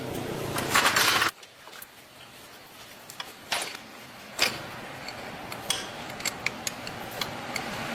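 A loud stretch of noise that cuts off abruptly just over a second in, then scattered sharp metallic clicks and taps of hand tools and parts being handled.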